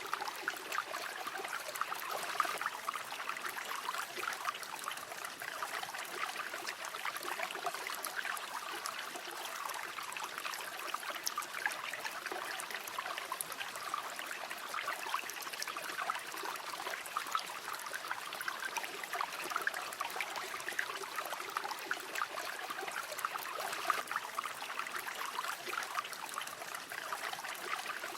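A river flowing: a steady rush of running water with fine, constantly flickering trickles and bubbles.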